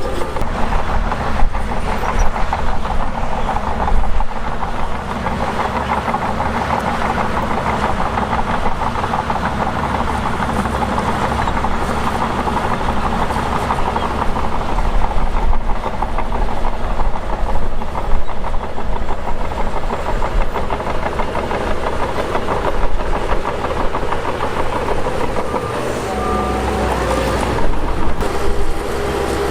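Shantui DH17 bulldozer working dirt, its diesel engine running steadily with a continuous metallic clatter.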